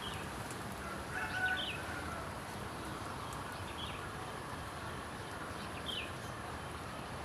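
Small songbird giving a few short, scattered chirps, the loudest about a second and a half in, over a steady background hiss.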